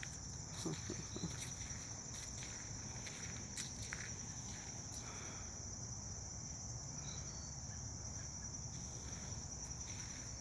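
A steady, high-pitched insect chorus, with scattered footsteps on the path.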